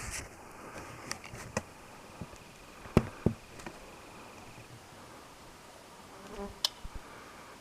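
Faint buzzing of a flying insect, with a few sharp clicks and knocks; the loudest are two close clicks about three seconds in.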